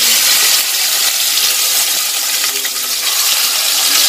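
Marinated chicken pieces dropped into hot oil in an aluminium pot, sizzling and frying with a loud, steady hiss.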